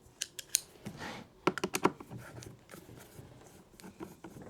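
Small sharp clicks and taps of an Allen key and parts on an Uhlmann fencing reel as its screws are undone and the casing opened. There is a quick run of clicks in the first two seconds with a short scrape about a second in, then quieter handling.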